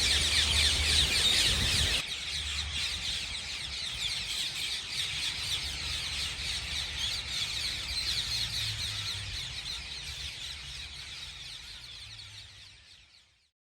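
A flock of rose-ringed parakeets screeching, many shrill calls overlapping at once. The calls drop in level about two seconds in and fade out near the end.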